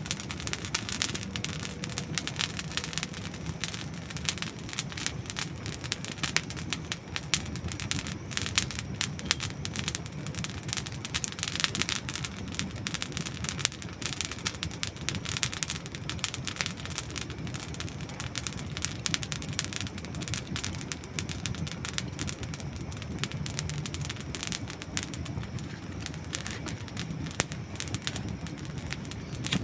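Campfire of dry wood burning, with dense, irregular crackling and sharp pops over a steady low rumble of the flames.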